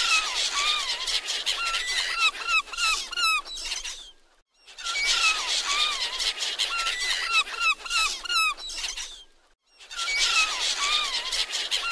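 A seabird colony with many birds calling over one another: short squealing calls that rise and fall in pitch. It comes as three bursts with a brief break between each.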